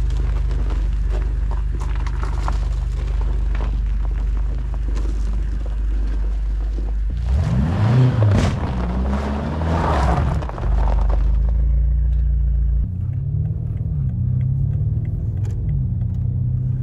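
BMW F90 M5's twin-turbo V8 idling with a steady low rumble, then revving up and down about seven to eleven seconds in, with a rush of noise as the car pulls away on snow. After about thirteen seconds the engine runs more steadily, its pitch rising and falling a little.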